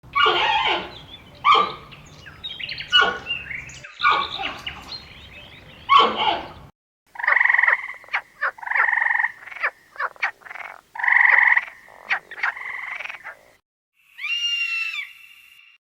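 Animal calls in succession: harsh, noisy calls for the first half, then a run of short repeated calls, and near the end a higher call that glides downward.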